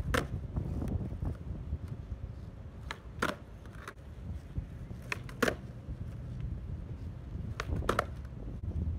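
Skateboard nollies on asphalt: the nose pops against the ground and the wheels clack down a moment later, a pair of sharp clacks about every two and a half seconds, three times, after the landing of one trick right at the start.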